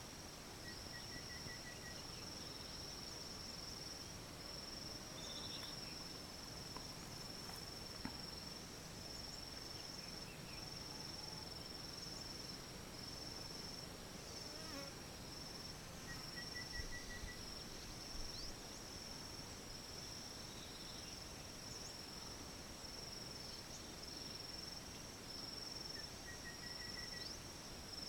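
Insects chirring steadily in a high, thin tone with short regular breaks, and three times a brief run of rapid lower notes.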